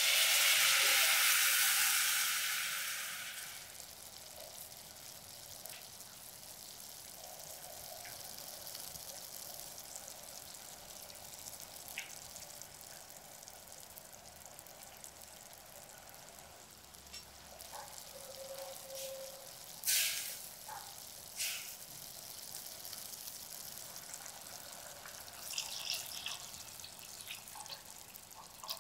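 Blended spice paste of garlic, shallot and turmeric hitting hot canola oil in a stainless pot: a loud sizzle for about three seconds, settling into a steady, quieter sizzle as it fries. A few sharp clicks of utensils on the pot come later, and water starts pouring in at the very end.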